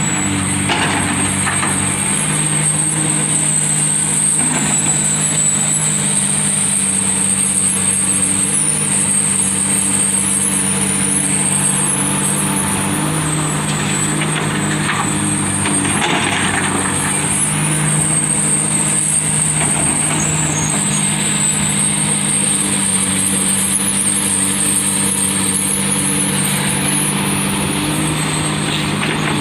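Heavy diesel engine of a Komatsu PC300 excavator running steadily, with a constant high-pitched whine over it. Short hissing surges come about a second in and again around sixteen seconds.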